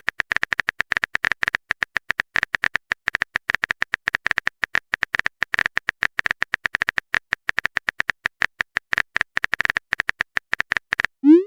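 Keyboard typing sound effect: a fast, irregular run of short clicks that goes on without a break.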